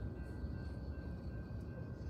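Freight train tank cars rolling past, a steady low rumble of wheels on rail with a faint high squeal now and then.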